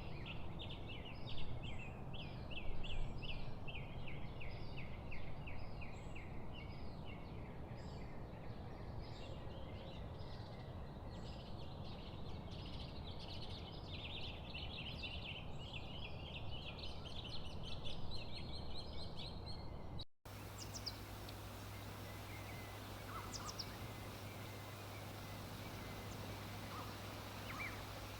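Many birds chirping together in a dense chorus of fast, repeated trilled notes. About twenty seconds in, it cuts off suddenly to a steady hiss with a low hum and only a few scattered single bird calls.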